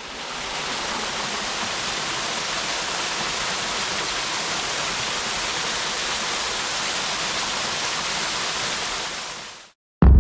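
Waterfall rushing in a steady, even roar of falling water, fading in at the start and fading out near the end. A brief loud low rumble cuts in at the very end.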